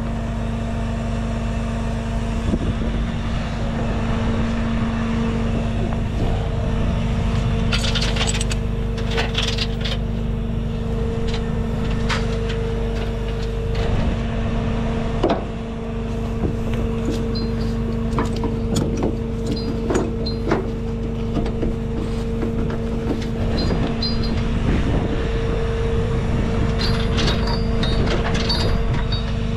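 Tow truck engine running at a steady raised idle, a constant hum, with scattered metal clanks and clinks as the tie-downs are hooked to the anchor points.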